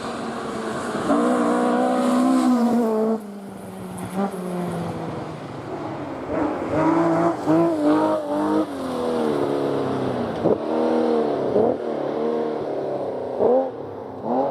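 Rally car engine running hard at high revs, then dropping away after about three seconds. From about six seconds in it revs up and down in quick repeated rises and falls, as through gear changes and throttle blips.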